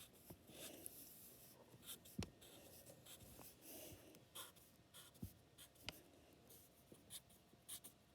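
Faint pencil scratching on paper in short strokes, with a few light taps or clicks.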